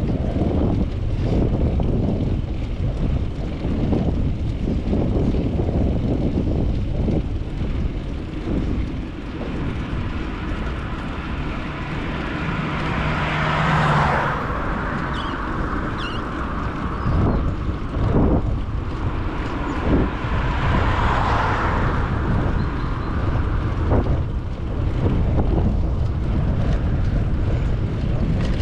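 Wind rumbling on a bicycle-mounted action camera's microphone while riding, with road rumble and frequent small knocks. Twice, about halfway through and again about three-quarters through, a louder hiss swells and fades.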